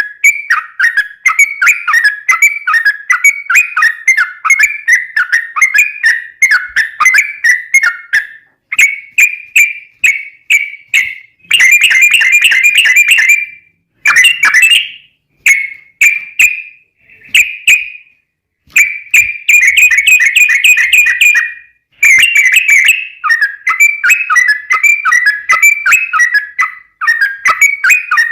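Yellow-vented bulbul (trucukan) singing a long, rapid run of bubbly whistled notes, several a second, in chattering bursts broken by brief pauses.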